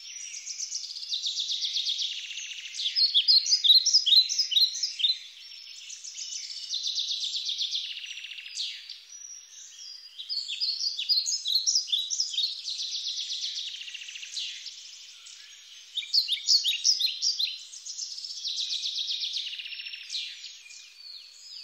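Songbirds singing: repeated phrases of fast high trills and quick falling chirps, coming again every few seconds.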